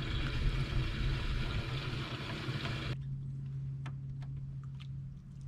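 A boat's motor humming steadily at one low pitch. Over it, an even rushing noise cuts off abruptly about three seconds in, leaving the hum and a few faint ticks.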